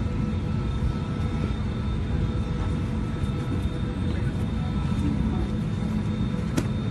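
Steady low rumble of an airliner's cabin, with a sharp click near the end.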